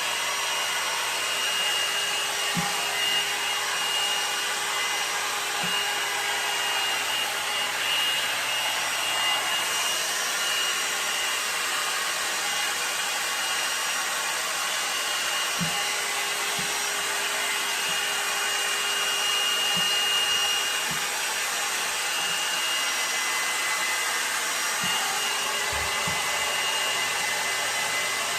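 L'ange blow dryer brush running steadily: an even rush of air with a faint high whine.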